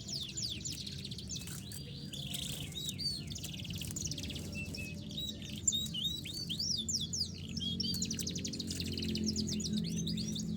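A domestic canary singing a continuous warbling song of rapid chirps and sweeps, breaking into fast trills near the end.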